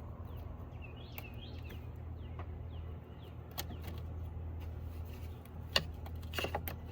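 A few sharp clicks and light handling noises of plastic wiring clips being worked on an engine, over a steady low hum, with birds chirping about a second in.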